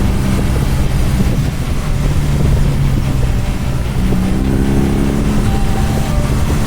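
BMW R nineT's boxer twin engine running through an HP Corse GP-07 slip-on exhaust, its pitch shifting a couple of times as the revs change.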